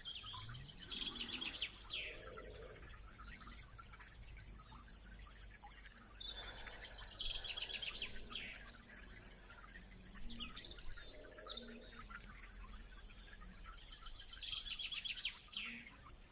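A songbird singing the same short, rapid trilled phrase three times, each about two seconds long and ending in a downward sweep, with fainter bird chirps in between.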